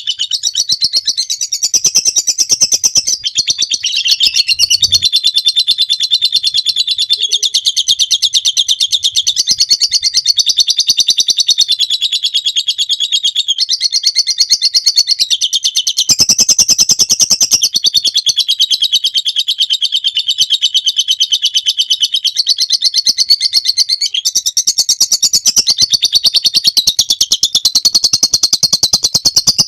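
Lovebird singing its long 'ngekek': a loud, unbroken, very rapid high-pitched chattering trill.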